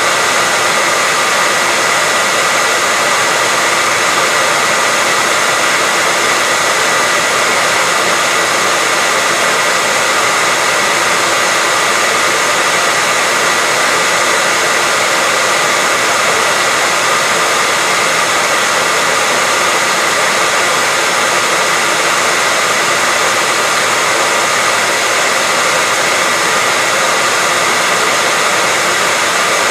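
Hair dryer running steadily, an even rushing blow of air with a faint steady whine under it.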